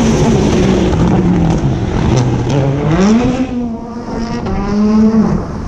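Rally car engine running hard: the pitch falls over the first few seconds, rises steeply about three seconds in as it accelerates, holds high, then drops again near the end.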